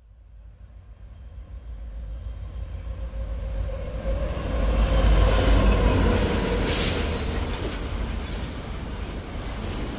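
Train rumbling past, fading in from silence and growing louder to a peak about five seconds in, with a short sharp hiss about seven seconds in.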